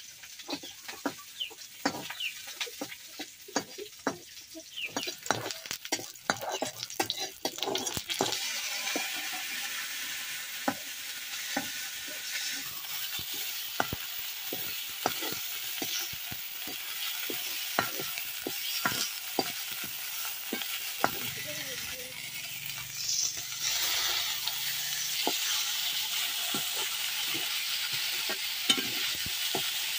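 Food frying in a steel kadai, stirred with a ladle that scrapes and taps against the pan. About eight seconds in, a steady sizzle from the hot oil starts up and carries on under the stirring clicks.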